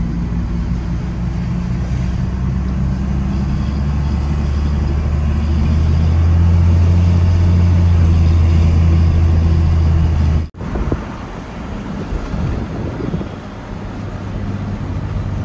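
Engine of a heavy vehicle running steadily, working harder and getting louder about halfway through. It cuts off abruptly and is replaced by a quieter, rougher engine sound.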